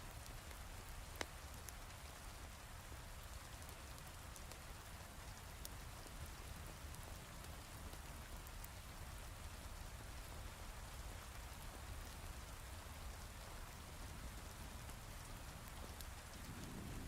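Steady heavy rain with scattered sharp crackles and one louder pop about a second in; a low rumble of thunder begins near the end.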